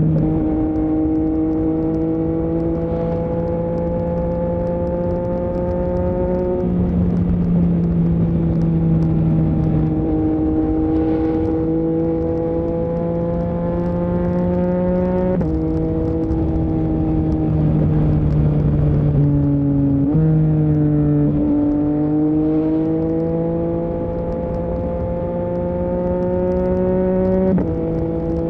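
Yamaha MT-09's 890 cc CP3 crossplane inline-three running through an Akrapovic full-system exhaust while riding. The engine note climbs gently through each gear, with a sudden step in pitch at each of about five gear changes.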